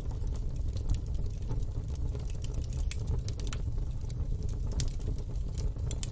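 Wood fire in a fire pit crackling, with irregular sharp pops and snaps over a steady low rumble.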